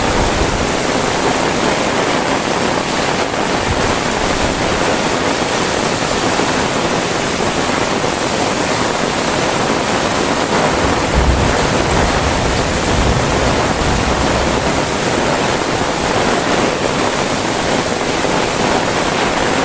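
Heavy rain falling steadily, a dense, even hiss. A short low rumble comes a little past the middle.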